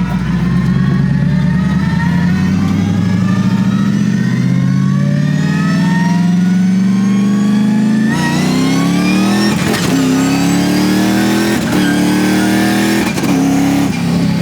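Twin-turbo 6.2-litre V8 swapped into a Crown Victoria accelerating hard, revs climbing steadily for about eight seconds. Then a brief ignition cut and drop in revs as it takes a clutchless upshift, and it pulls again with several sharp breaks in the engine note near the end.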